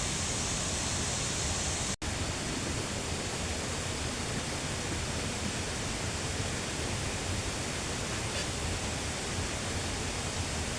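Steady rushing noise of flowing water, like a stream or small waterfall, with a split-second dropout about two seconds in.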